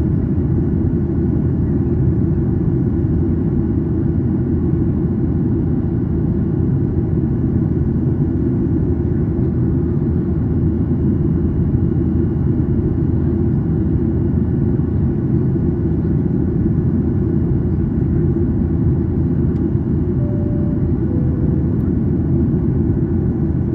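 Steady cabin noise of a Boeing 737-800 climbing, the drone of its CFM56-7B turbofan engines and airflow heard from a window seat behind the wing. A faint two-note falling tone sounds near the end.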